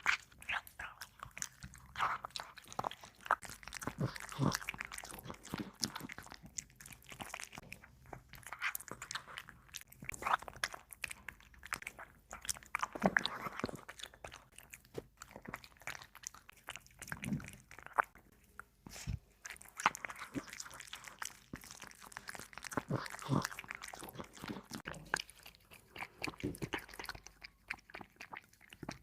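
A cat chewing and crunching meat close to the microphone: irregular wet clicks and smacks of biting and chewing, in uneven clusters.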